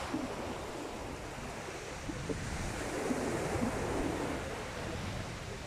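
Sea waves washing onto the beach, a surge swelling about halfway through, with wind rumbling on the microphone.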